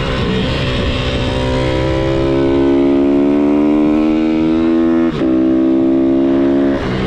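MRF 160-R SM pit bike's single-cylinder four-stroke engine accelerating through the gears. Its pitch climbs for about five seconds, drops sharply at an upshift, climbs again, and drops at another shift near the end.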